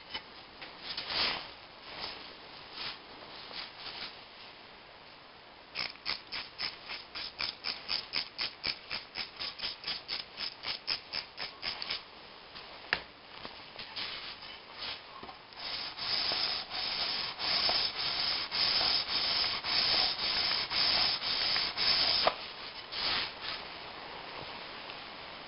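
Hand sanding the gasket face of a Peugeot 206 1.1 cylinder head with abrasive, back and forth. A few scattered strokes come first, then a quick run of about three to four short strokes a second, then slower, louder strokes near the end.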